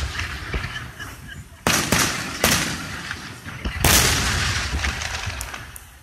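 Aerial fireworks shells bursting in a string of booms: two close together about two seconds in, another half a second later, and the loudest about four seconds in, each trailing off in a rumbling echo.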